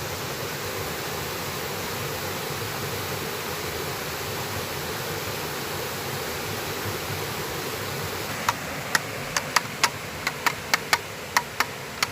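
Valley stream water rushing steadily. About two-thirds of the way in, a quick run of sharp knocks starts, a few a second and uneven.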